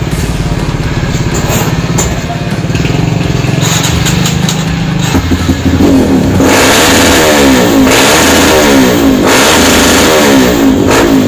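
Kawasaki KLX dirt bike's single-cylinder engine idling, then, from about five seconds in, revved again and again in quick throttle blips, its pitch rising and falling several times. The revs come from testing a newly fitted YZ quick-action throttle.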